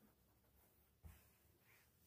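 Near silence: room tone, with one soft knock about a second in.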